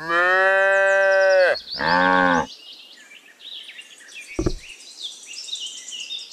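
A cow mooing twice, one long moo falling at its end and then a short one, with birds chirping faintly afterwards and a soft thump about two seconds later.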